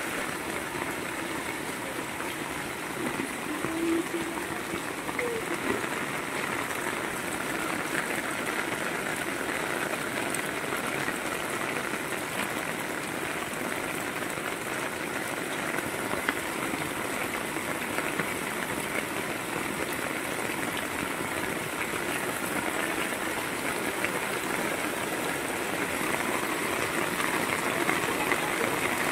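Heavy rain pouring down on a yard and corrugated sheet roofs, with runoff gushing off the roof edges: a steady hiss with scattered drop ticks.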